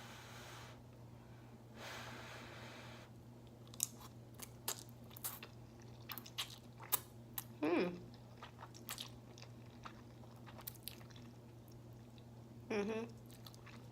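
Close-miked eating of spicy ramen noodles: two soft breathy hisses in the first three seconds, then wet chewing with many sharp lip-smacking clicks. A short hummed sound comes about eight seconds in and another near the end.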